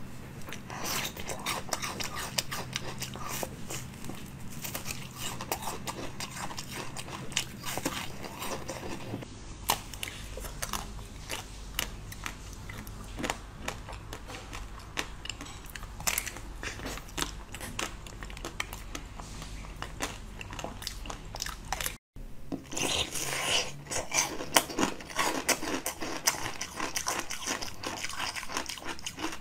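Close-miked biting and chewing of frozen treats: a dense run of crisp crunches and cracks as icy pieces break between the teeth, with a brief drop-out about 22 seconds in.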